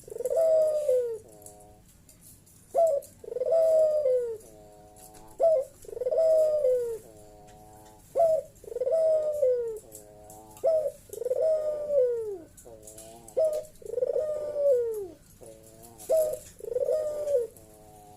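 Puter dove (Barbary dove) cooing loudly and repeatedly, its 'bekur' call. Each phrase is a short note, a long falling coo and a softer trailing note, about every two and a half seconds.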